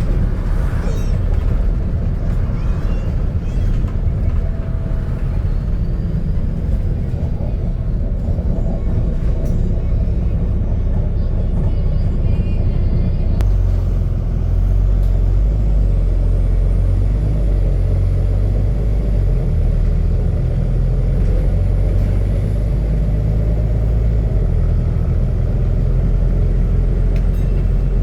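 Volvo B9TL double-decker bus's diesel engine running under way, with the loud deep drone of a burst exhaust heard from inside the bus. About halfway through, the deep rumble grows heavier and stays that way.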